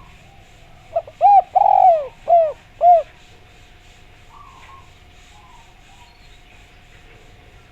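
Spotted dove (derkuku) cooing: one phrase about a second in, a short lead note followed by four arched coos, the second drawn out longer than the rest.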